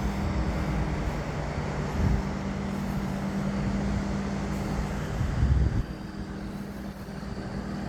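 Vehicle engine idling steadily with a low hum, with brief louder low rumbles about two seconds in and again around five seconds in.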